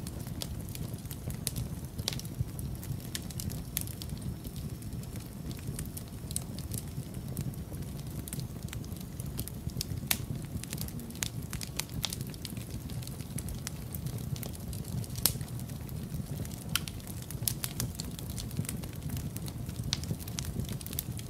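Wood fire crackling in a fireplace: a steady low rumble of flames with frequent irregular sharp pops and snaps of burning logs.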